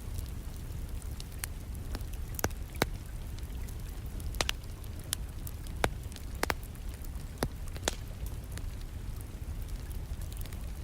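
Wood fire crackling, with sharp irregular pops and snaps over a steady low rumble, and rain falling steadily in the background.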